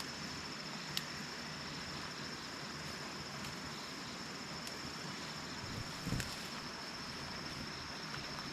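Steady high-pitched drone of insects, with a few faint clicks and a short dull thump about six seconds in.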